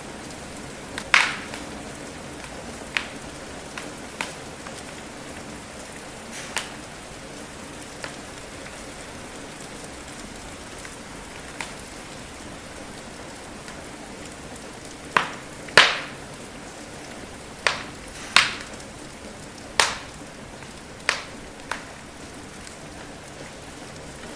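Steady rain hiss with a wood fire crackling over it: about a dozen sharp, irregular pops that die away quickly, several coming close together in the second half.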